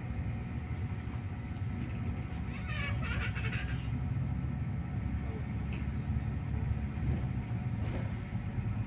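Interior of a MAZ-215 articulated city bus under way: steady low drone of engine and road noise. About three seconds in, a brief wavering high-pitched squeak cuts across it.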